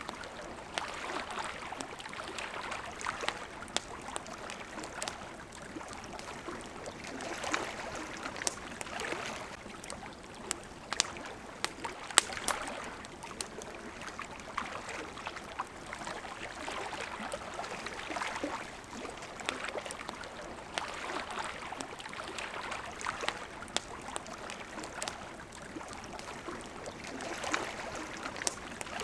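Small waves lapping at a shore in slow swells every two to three seconds, with a wood campfire crackling in sharp pops throughout, one louder pop about twelve seconds in.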